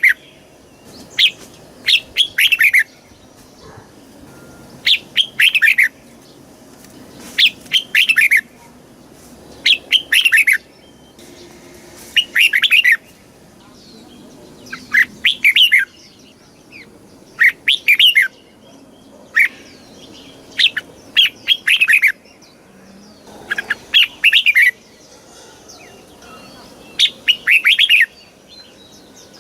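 Red-whiskered bulbul singing short phrases of quick notes, repeated about every two to three seconds.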